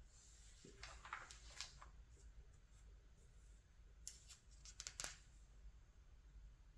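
Faint rustle of glossy catalog pages being handled and turned: a soft swish about a second in, then a quick run of crisp crackles around four to five seconds in.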